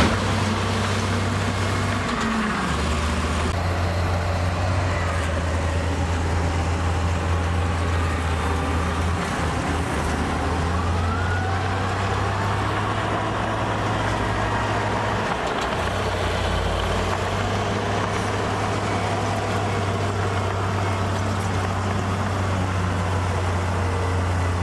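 Heavy diesel earthmoving machinery running steadily with a deep engine drone that shifts pitch a few times, plus faint whining sweeps that rise and fall.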